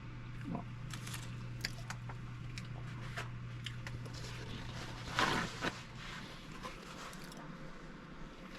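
A person chewing a bite of a soft Devil Dog snack cake, with scattered small mouth clicks and a louder brief mouth sound about five seconds in.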